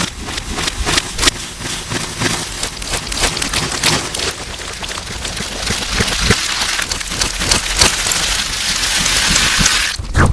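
Slime being squished and worked close to the microphone, a dense wet crackling of pops and clicks, distorted. The crackle grows thicker and louder, then cuts off abruptly about ten seconds in.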